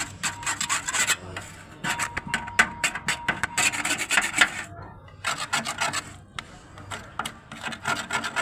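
Fast back-and-forth rubbing strokes, several a second, scraping peeling old paint off a microwave oven's metal surface ahead of repainting, with a brief pause about five seconds in.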